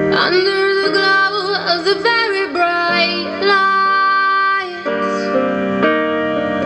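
Song: a woman singing a gliding vocal line over sustained piano chords.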